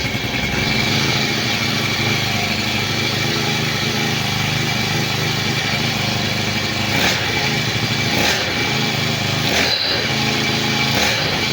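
Honda GX35 four-stroke single-cylinder brushcutter engine running steadily just after being pull-started on the choke, with a few brief sharp sounds in the second half.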